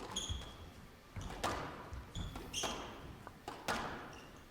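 A squash rally: the ball cracks against racket and walls about once a second, about four main strikes echoing in a large hall, with squash shoes squeaking on the court floor twice.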